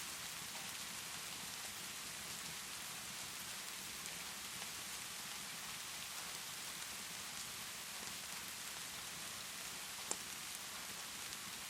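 Steady rainfall hiss with faint, scattered crackles from a fireplace, and one sharper pop near the end.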